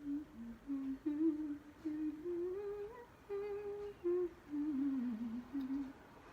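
A woman humming a wordless melody, a single unaccompanied voice that climbs to its highest note about halfway and then sinks back down.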